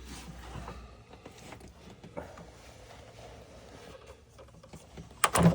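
Scattered light clicks and rattles of parts and tools being handled in the engine bay while the intake is taken apart, with a louder clatter about five seconds in.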